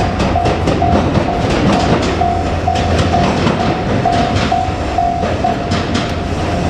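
Train running past close by over a level crossing, with a heavy steady rumble and many short clacks from the wheels. A repeating warning tone from the crossing's alarm rings through it, cutting in and out.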